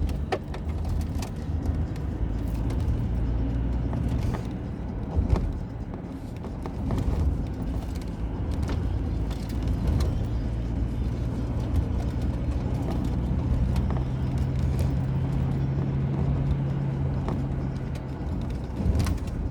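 Car driving, heard from inside: steady engine and road rumble with scattered knocks and rattles from the road surface. An even engine tone holds through the second half and eases off near the end.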